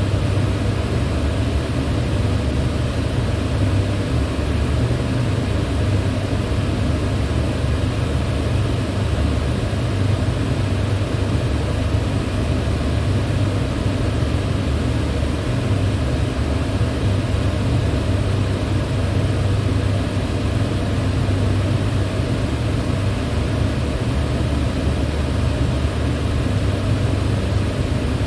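Electric fan running steadily: an even rush of air noise over a low hum, unchanging throughout.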